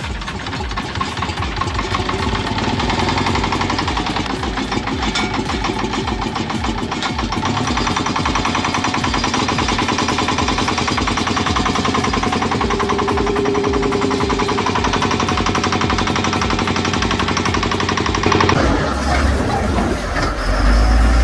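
Old heavy machine's Detroit Diesel engine running, a steady rapid train of firing pulses. About two and a half seconds before the end it cuts abruptly to a louder, deeper rumble.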